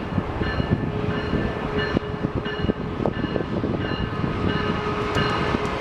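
Amtrak Missouri River Runner passenger train, led by an SC44 Charger locomotive, rolling into the station. Its wheels knock over the track joints under a steady rumble, and a locomotive bell rings about twice a second.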